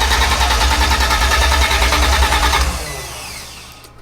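BMW E30 engine being cranked on the starter motor with an even pulsing rhythm, not catching, which the crew puts down to a fuel problem. The cranking stops abruptly about two and a half seconds in, and a falling whine fades out after it.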